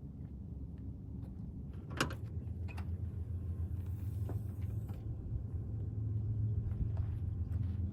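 Low, steady motor-vehicle rumble that grows louder after about two seconds and cuts off abruptly near the end, with a sharp knock about two seconds in and a few lighter clicks.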